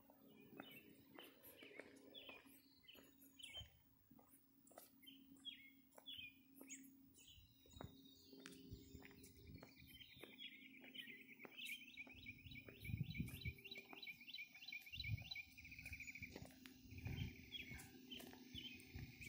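Faint birds chirping, with a fast trill of rapidly repeated notes about eight to twelve seconds in, over a low steady hum.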